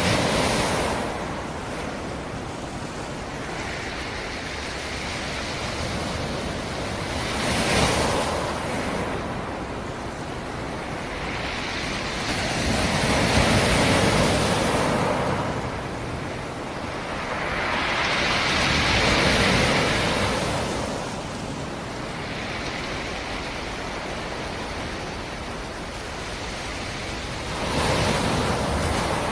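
Sea surf: a steady wash of water with five waves breaking one after another, each surging and fading over a few seconds, the loudest and longest about halfway through.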